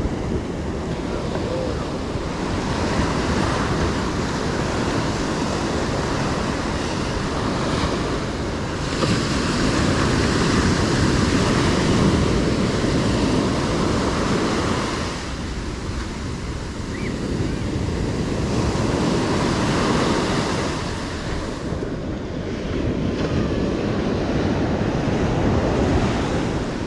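Ocean surf washing onto a beach, the noise swelling and easing as waves break every few seconds, with wind buffeting the microphone.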